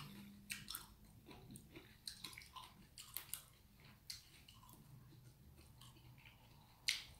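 A person chewing gimbap, making faint, irregular mouth clicks.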